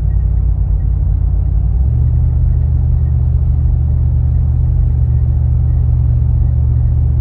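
A 2004 Lexus GX470's V8 with an aftermarket R4T cat-back exhaust, droning low and steady while the truck drives, heard from inside the cabin. About two seconds in, the pitch of the drone shifts and then holds steady again.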